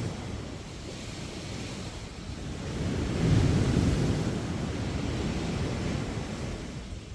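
Sea waves breaking on a beach: a wave swells about three seconds in, crashes at its loudest a moment later, then washes out and slowly fades.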